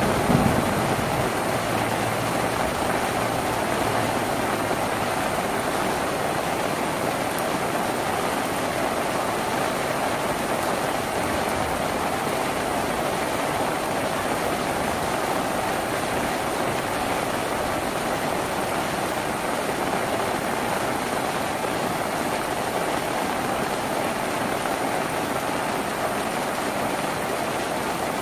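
Steady heavy rain drumming on a tin roof, an even wash of sound; the tail of a low thunder rumble dies away about a second in.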